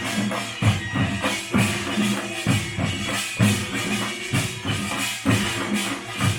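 Pungmul folk percussion band playing: drums beat a steady, driving rhythm of repeated strokes under a bright, continuous metallic clatter of small gongs.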